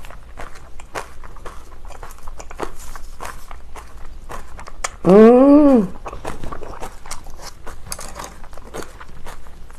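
Close-up chewing of crunchy napa cabbage kimchi, many small wet crunches and mouth clicks. About five seconds in comes a short closed-mouth hum that rises and then falls in pitch, the loudest sound.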